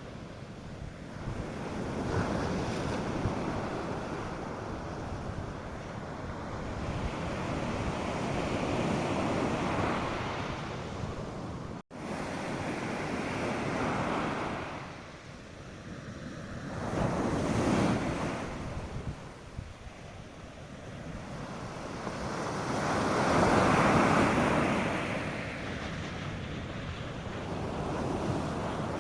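North Sea surf breaking on a beach, a steady wash of waves that swells and ebbs in slow surges, loudest about two-thirds of the way through and again near the end, with some wind noise on the microphone. The sound cuts out for an instant about twelve seconds in.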